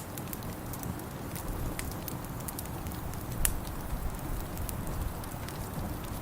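Wood fire in a fireplace crackling, with irregular sharp pops over a steady low rumble; the loudest pop comes about halfway through.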